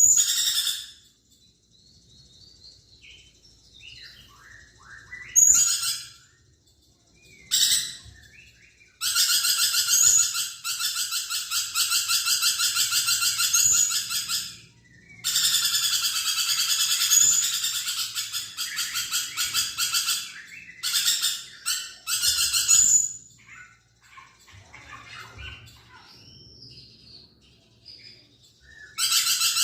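Lorikeet calling in harsh, rapid, high screeching chatter: short bursts near the start, then two long bursts of about five seconds each in the middle, then a few more short bursts, with softer scattered chirps in between.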